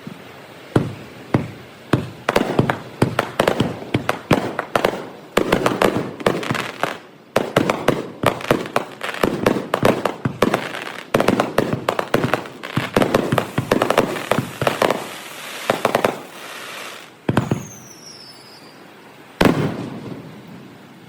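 Fireworks display: a rapid barrage of firework shells bursting, dozens of sharp bangs and crackles in quick succession, thinning out near the end to two single loud bangs with a short falling whistle between them. The audio is played back at double speed.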